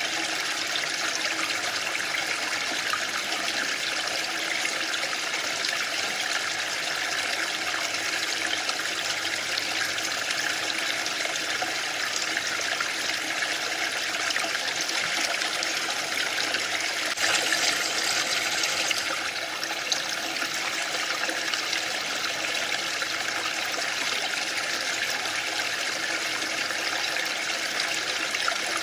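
Waterfall: a steady, even rush of falling water, briefly a little louder and brighter a bit over halfway through.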